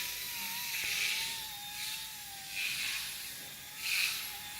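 Vevor gyro-stabilized RC toy helicopter hovering: a steady electric motor and rotor whine that wavers slightly in pitch, with swells of rotor noise about every second or so.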